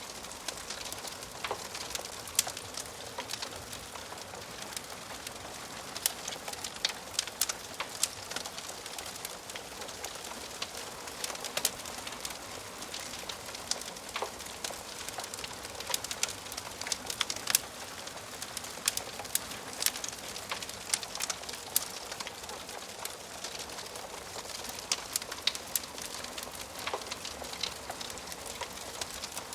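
Wood fire crackling in a fireplace: a steady hiss of burning logs with frequent irregular sharp pops and snaps.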